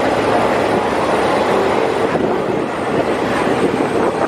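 Passenger train running steadily along the track: continuous wheel and rail noise heard from the open side of a moving coach.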